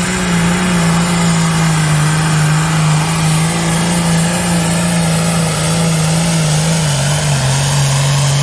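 Farm pulling tractor's diesel engine running hard under load as it drags the sled, one strong steady note that drops lower about seven seconds in as the engine is pulled down.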